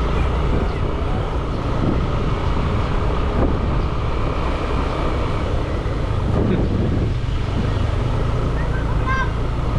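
Wind buffeting the microphone of a moving motorbike, over the steady running of its small engine and tyre noise.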